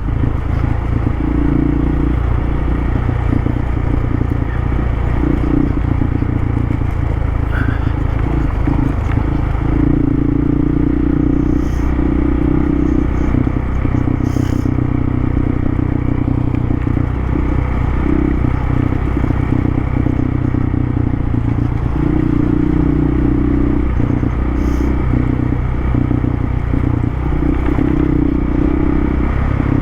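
Dual-sport motorcycle engine running while being ridden, its note shifting in steps every few seconds.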